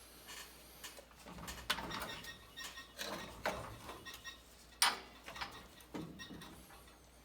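Scattered metallic clicks, clinks and taps of hand tools and parts on a B&G Series 100 circulator pump as its coupler is worked off, with one sharper knock about five seconds in.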